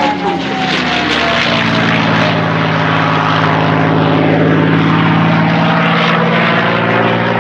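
P-51D Mustang's Packard-built Merlin V-12 engine running loud and steady as the aircraft flies its display. A high whistle falls in pitch over the first couple of seconds, from its whistling gun ports.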